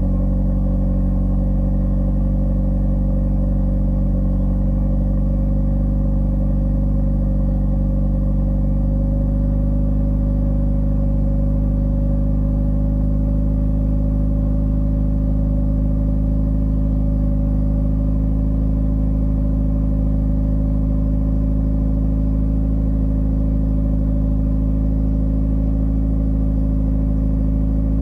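Toyota Celica GT-Four ST205's 3S-GTE turbocharged 2.0-litre inline-four idling steadily after a cold start, its pitch creeping up slightly.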